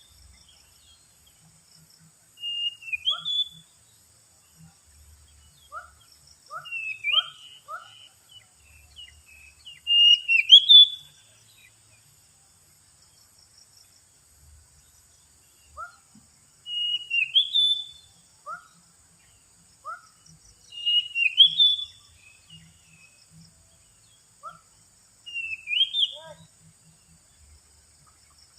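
Oriental magpie-robin song: bouts of loud, rising and falling whistles every few seconds, with short lower notes between them. It is a lure call (pikat) used to draw in wild magpie-robins.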